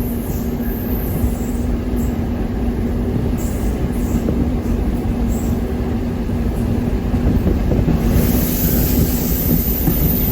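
Passenger train running along the track: a steady low rumble with a steady hum. About eight seconds in, a hiss rises in the high range.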